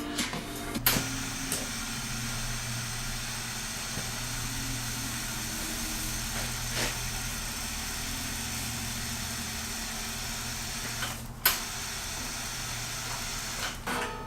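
A machine running steadily with a low hum and a hiss, with a few sharp clicks, the loudest about eleven seconds in.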